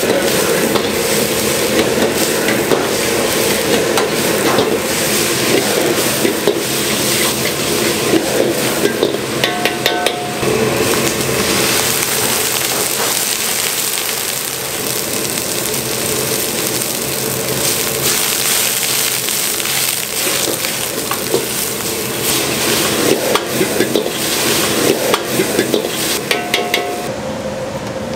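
Food frying and sizzling while being stirred, with a run of sharp knocks near the end.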